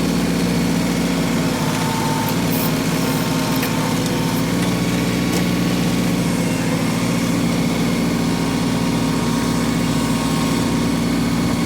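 Diesel engine of an LS XG3025 compact tractor running steadily.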